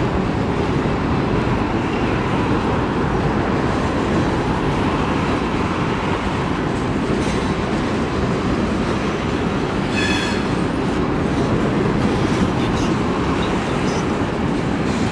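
Freight cars rolling past on steel rails with a steady rumble and clicking of wheels over the track. A brief high wheel squeal comes about ten seconds in.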